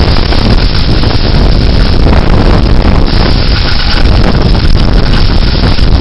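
Severe thunderstorm winds, measured at about 55 mph on the rooftop, blasting across the microphone: a loud, steady wind noise with a heavy low rumble.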